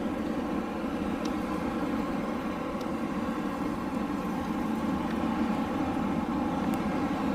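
Steady rushing of moving air, even and unbroken, strongest in the low range, with a faint even hum above it and a few faint ticks.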